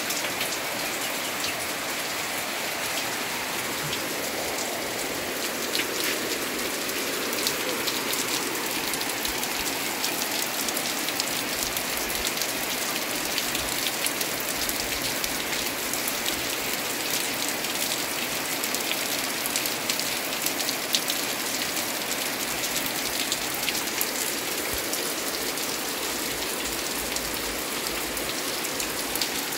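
Heavy rain falling steadily, an even hiss of rain with scattered sharper drop ticks close by.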